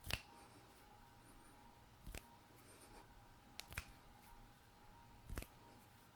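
Sharp, sparse clicks from hands worked close to a microphone, five in all: one near the start, one about two seconds in, a quick pair past the middle and one near the end. They sound over a faint steady hum.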